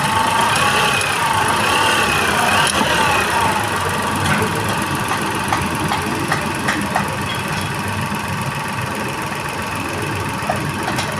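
Car engine idling steadily, with scattered light ticks. Over the first three seconds a wavering tone rises and falls above it.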